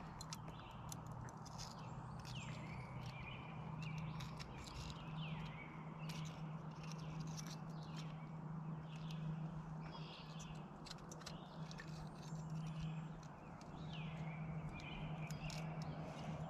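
Birds chirping in short, curved calls repeated every second or so, over a low steady hum and scattered small clicks.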